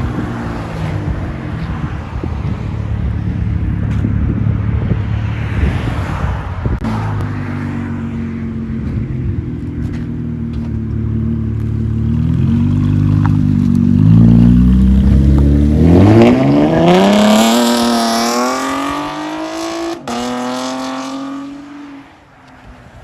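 Chevy Camaro 3.6L V6 through a muffler- and resonator-delete true-dual exhaust with an X-pipe, running low and steady, then revving hard about fourteen seconds in. The pitch climbs sharply, eases back, and drops away near the end.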